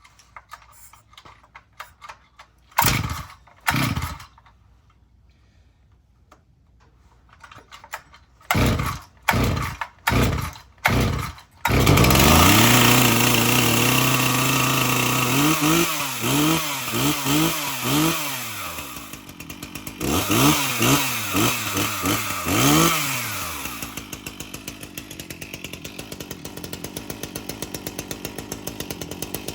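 Stihl MS 360 chainsaw being cold-started: about seven pulls of the starter rope on choke with the decompression valve pushed in, before the engine catches about 12 seconds in. It runs fast for a few seconds, is revved up and down about six times, then settles to a steady idle near the end.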